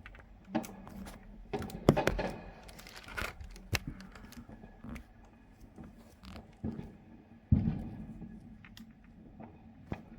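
Fireworks going off: scattered sharp cracks and pops, with a louder bang about two seconds in and another about seven and a half seconds in that trails off in a rumble.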